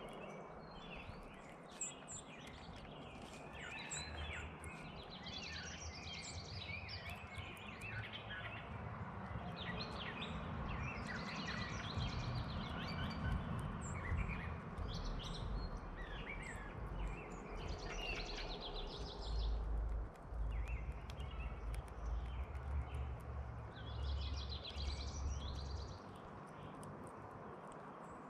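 Small birds chirping and calling, with many short chirps overlapping. Under them runs a low rumble that swells from a few seconds in and drops away near the end.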